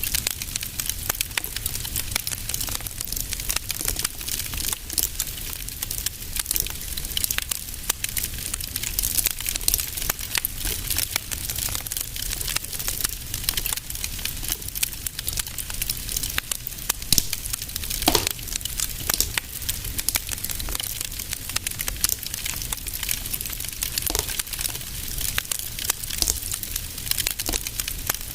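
Wood fire in a fireplace crackling and popping continuously over a low steady rumble of the flames. About two-thirds of the way in a brief whistle rises in pitch, like gas hissing out of a log.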